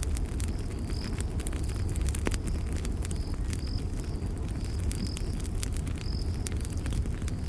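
Campfire burning with a steady low rumble and frequent sharp crackles and pops, while crickets chirp in short high pulses about twice a second.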